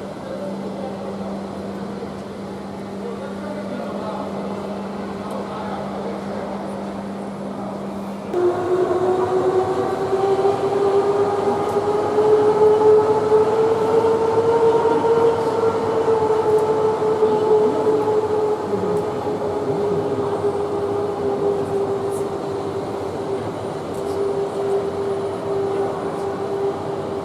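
F-15 fighter's Pratt & Whitney F100 turbofan engine running on a ground test run with a steady whine. About eight seconds in it spools up, louder, with a rising whine that levels off and eases slightly.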